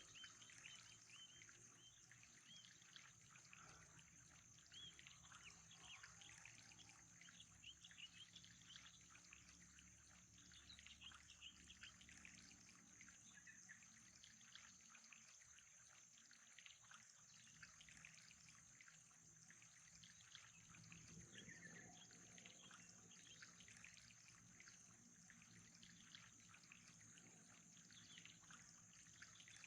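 Very faint nature ambience: trickling water with many short, scattered animal chirps and a steady high-pitched hiss.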